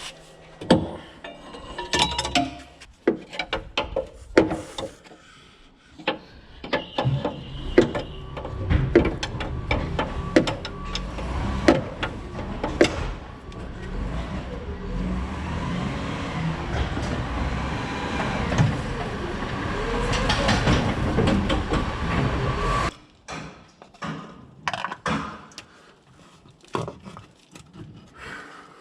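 Metal hand tools clinking and knocking on steel as a rust-seized hydraulic fitting on a Bobcat 753 skid-steer is worked loose, in many short, sharp strikes. A steady low rumble comes in partway through and cuts off a few seconds before the end.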